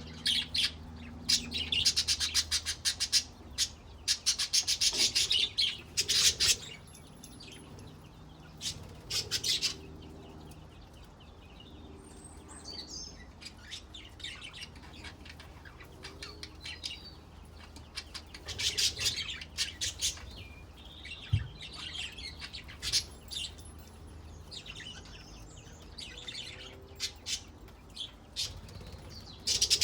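Pet budgerigars chirping and warbling in quick bursts of high chirps, busiest in the first few seconds and again about two-thirds of the way through, with sparser chirping in between.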